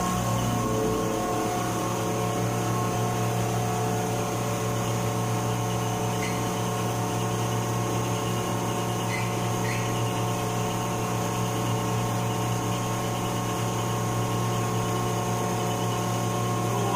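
Ship's air-conditioning refrigeration compressor plant running with a steady, even machinery hum while it pumps the refrigerant down into the condenser after the condenser outlet valve has been closed.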